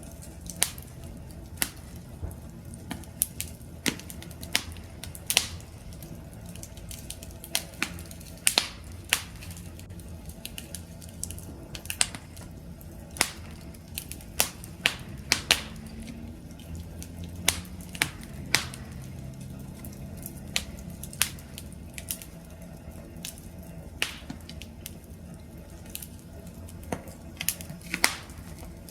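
Wood fire crackling: irregular sharp pops and snaps from burning logs over a low steady rumble of the flames.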